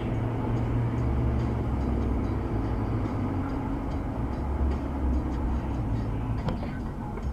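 Steady low rumble of a motor vehicle running, with road noise, and a faint tick about six and a half seconds in.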